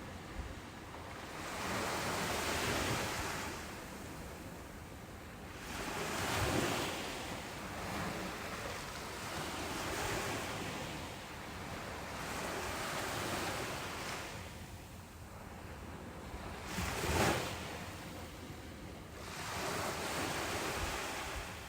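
Ocean waves breaking on a beach: the surf swells and falls back every three to four seconds, with one sharper, louder break about three quarters of the way in.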